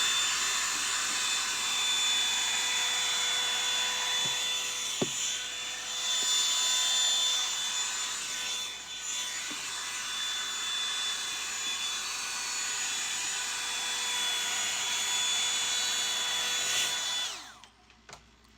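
Revlon hair dryer brush running steadily: a high motor whine over rushing air, with a single click about five seconds in. Near the end it is switched off and the whine falls away.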